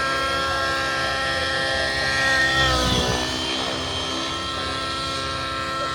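RC helicopter's motor and rotor whining steadily in flight. About halfway through the pitch dips briefly with a louder rush of air, then settles back to a steady whine.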